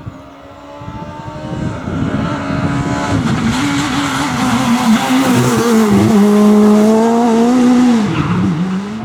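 Rally car engine at high revs, getting louder as the car approaches and passes close, with the engine note dropping sharply twice as the driver changes gear or lifts off.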